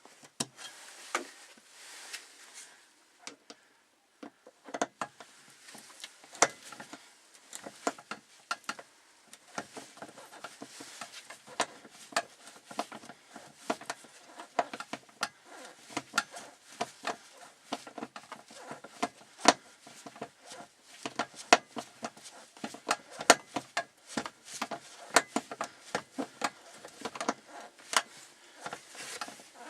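Irregular sharp clicks and taps of a hand tool working the screws of a fuel-pump access cover, coming several a second at times.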